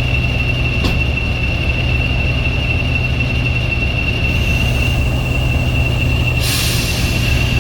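A train pulling away with a heavy, steady low rumble and a continuous high-pitched wheel squeal; about six and a half seconds in, a burst of hiss joins it.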